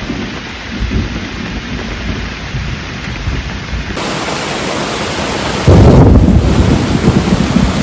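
Rain falling, turning suddenly heavier about four seconds in, then a loud low rumble of thunder near six seconds in.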